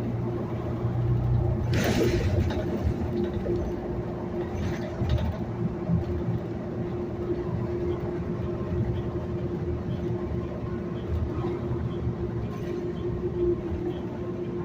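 Steady running noise of a city bus heard from on board: engine and road rumble with a constant mid-pitched whine, and a short hiss about two seconds in.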